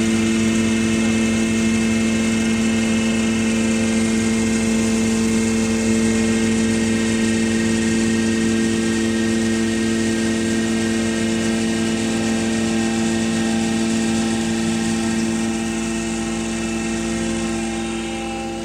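Animal feed pulveriser machine running at a steady speed with a loud, even mechanical hum, easing off slightly near the end.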